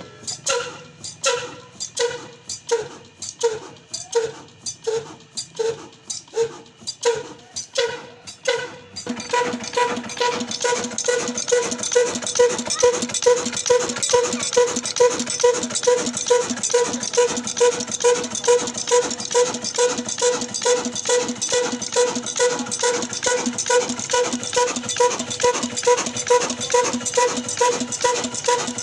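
Old 22 hp stationary diesel engine running, each firing a sharp beat with a metallic ring, at first about one and a half beats a second. About nine seconds in, a steady clattering noise joins and the beats quicken to a bit over two a second as the engine picks up speed.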